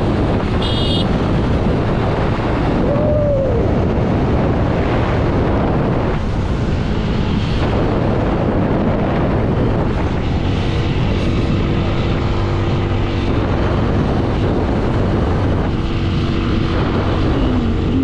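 Motorcycle on the move: the engine runs steadily under heavy wind rush on the rider's microphone. A short beep sounds about a second in.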